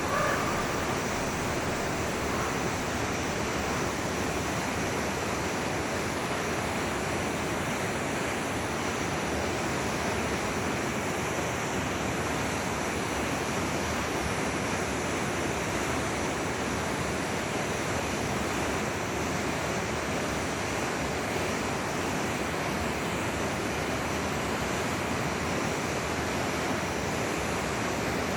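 Steady rushing of a flowing forest river, an even wash of water noise.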